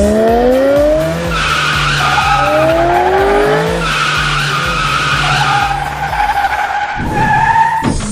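Race car sound effect: an engine revving up in rising sweeps, twice, with long wavering tyre squeals.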